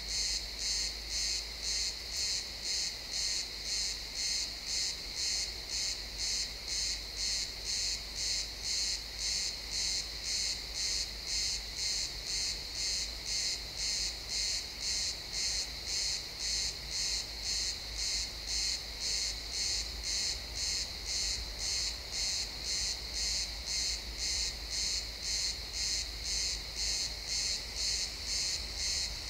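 Crickets chirping in a steady, even rhythm of about two high-pitched chirps a second.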